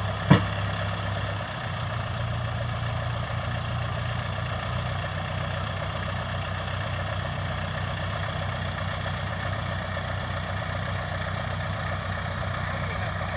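Farm tractor's diesel engine running steadily at an even speed, with a single sharp click just after the start.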